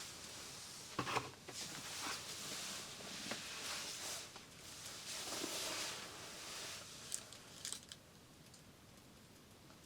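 Close rustling and crinkling handling noise with a few sharp clicks, stopping about eight seconds in.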